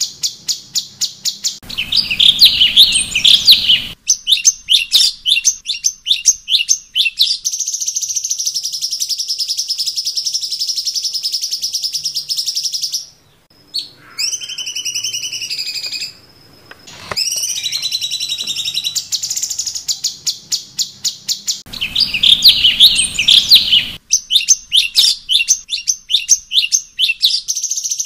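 Cucak cungkok bird singing a high-pitched song of fast repeated chirps and longer warbled phrases, with two brief pauses midway. The same stretch of song comes round again, as a looped masteran recording does.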